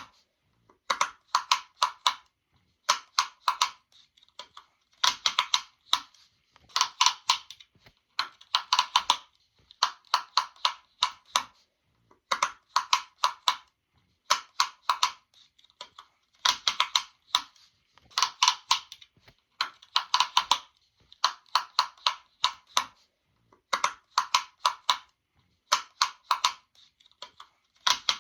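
Quick runs of small, sharp pops. Each run lasts about a second and comes roughly every two seconds.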